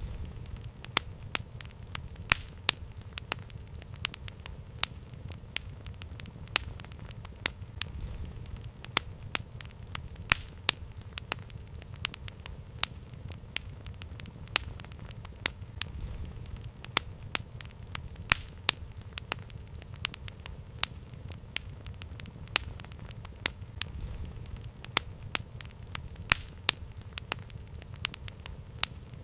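Campfire burning: frequent sharp, irregular crackles and pops over a low, steady rumble of the flames.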